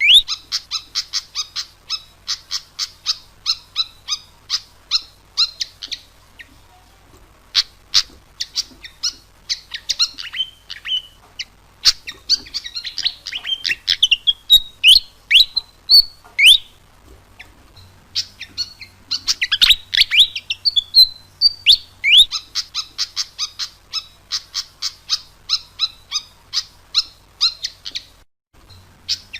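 Fantail singing: fast runs of short high chirps, several a second, broken by rising whistled notes, with a couple of brief pauses. A faint low hum sits underneath.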